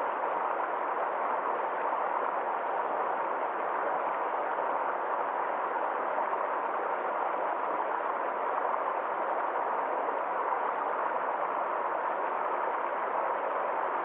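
Stream water flowing steadily, an even rush with no pauses or changes.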